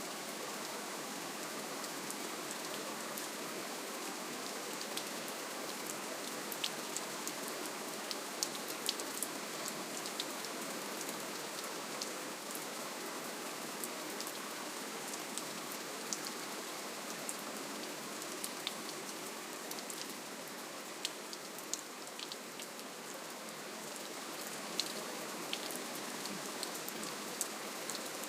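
Gentle, steady rainfall: an even hiss with individual drops ticking sharply here and there.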